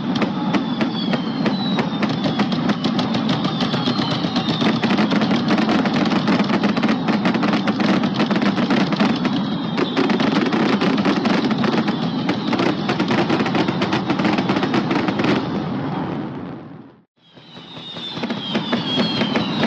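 Fireworks going off in rapid succession: a dense stream of crackling bangs over a steady rumble, with a few whistles sliding down in pitch. The sound fades out about seventeen seconds in and fades back up.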